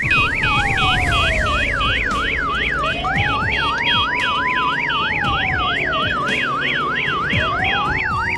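Police siren: a fast yelp sweeping up and down about three times a second, over a slower wail that rises and falls.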